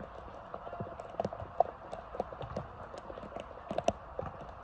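Irregular sharp knocks and thuds of a football being kicked and players' feet on a wet pitch, the loudest knock about one and a half seconds in, over a steady hiss.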